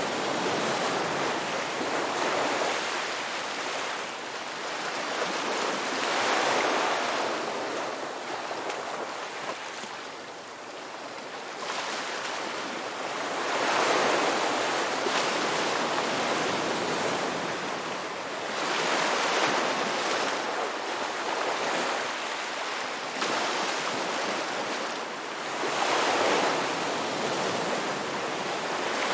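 Ocean waves breaking and washing up on a beach, the rush of surf swelling and falling back every few seconds.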